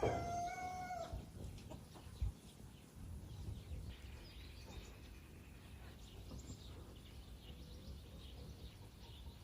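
A rooster crowing: the held end of a crow cuts off about a second in. Faint chicken clucking follows over a low rumble.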